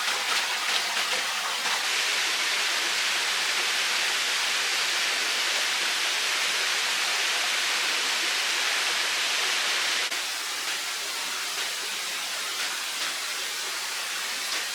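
Running water rushing steadily, a dense hiss of flowing water; it drops slightly in level about ten seconds in.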